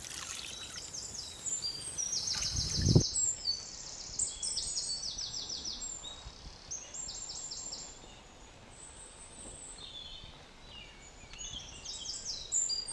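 Birds chirping in short, quick trills repeated over and over, with one dull knock about three seconds in.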